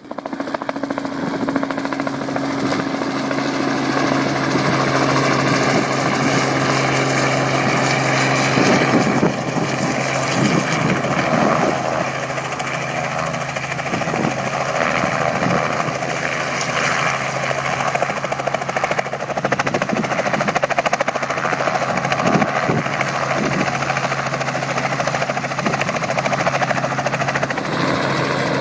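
Helicopter running steadily, a constant engine and rotor drone with a steady low hum under it.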